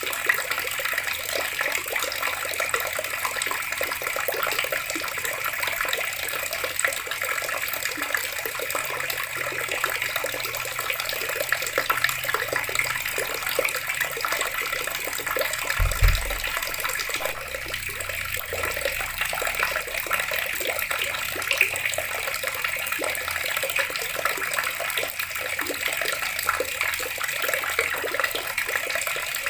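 Water running steadily from a tap, an even splashing rush. A brief low thump about halfway through.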